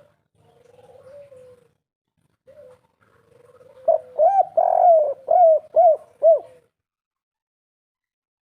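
Spotted dove (derkuku/tekukur) cooing: a few soft coos, then from about four seconds in a loud phrase of about six arched notes, in the three-part 'kuk 3' style used as a lure call.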